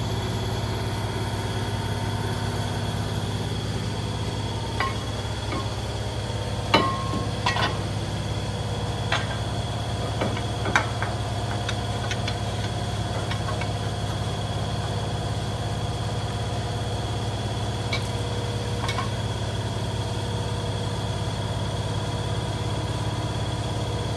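Electric buffer running steadily at constant speed, used to clean up freshly cut metal. A scattering of sharp clicks and ticks comes between about five and thirteen seconds in, and twice more later on.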